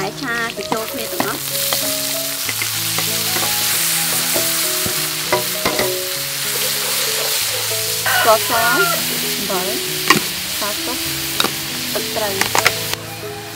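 Diced tomatoes and onions sizzling in hot garlic oil in a wok, stirred with a metal spatula that clicks and scrapes against the pan. The sizzle swells a second or two in, as the vegetables hit the oil.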